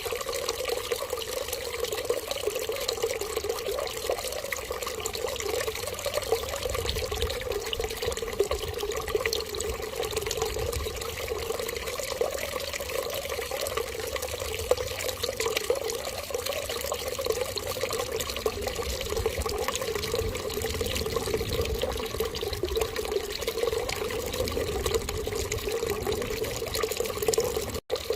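Steady running water, a continuous stream like a tap running into a sink. It cuts out for an instant near the end.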